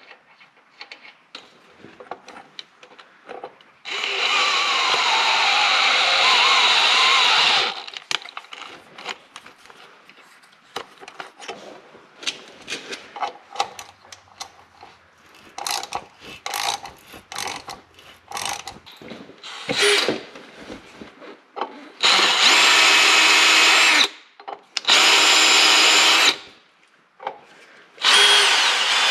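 Hand-held electric drill running in four bursts of a few seconds each, working on a steel plate, with small clicks and knocks of handling between the runs.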